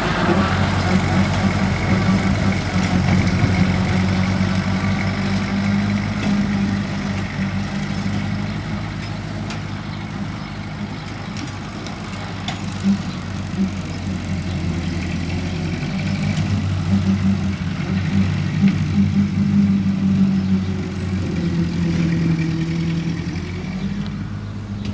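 Classic Ford tractor engine running steadily, its level easing off a little midway and coming back up later.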